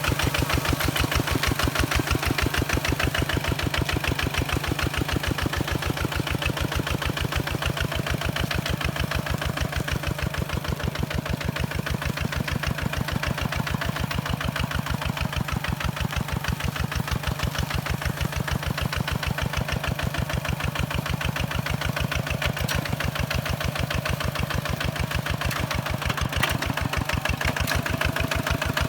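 Kubota diesel engine of a hand tractor running steadily, with a fast, even beat of exhaust pulses that holds unchanged throughout.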